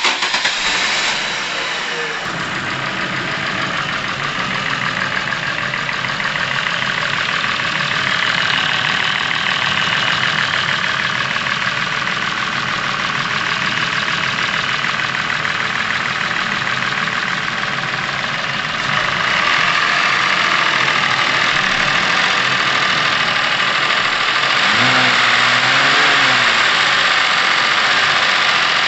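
Chevrolet Epica engine idling while it warms up, with a fast clatter from the top of the engine. This is the top-end knock of a worn, 200,000-km engine. The engine gets a little louder about two-thirds of the way through.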